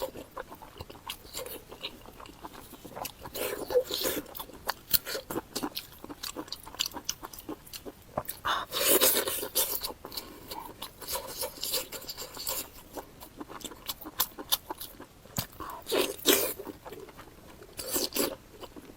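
A person chewing and crunching food close to the microphone: irregular wet clicks and crunches, with a few louder bites.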